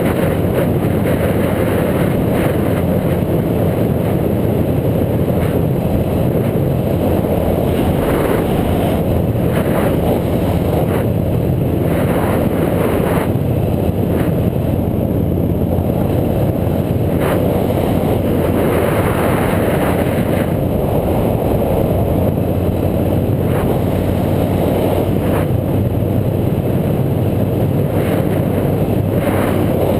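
Steady, loud rush of wind and road noise on a bike-mounted action camera's microphone while riding, with brief brighter gusts every few seconds.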